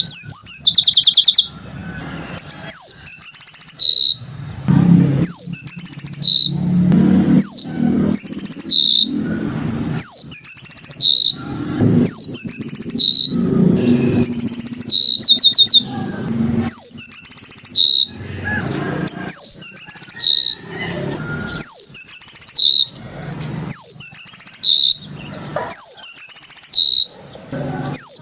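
Yellow-fronted canary (Mozambique canary) singing: short, high chirping phrases repeated over and over every second or two, above a steady high whistling note.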